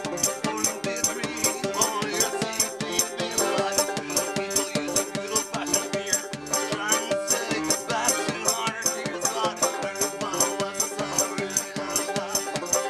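Live banjo-driven folk-punk song, with a shaker or similar rattle keeping an even beat about three times a second and a voice singing over the strummed strings.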